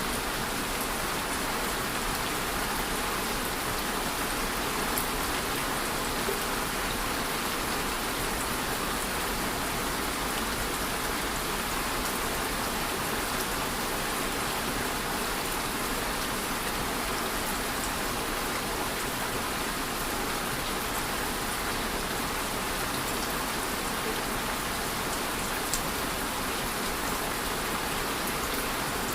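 Steady rain falling, an even hiss of rain on a surface with occasional individual drop ticks.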